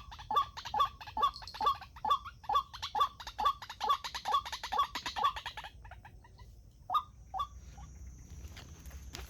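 White-breasted waterhen calling: a steady run of loud, short, repeated notes at about two a second, breaking off past the middle, with two more single notes a second or so later.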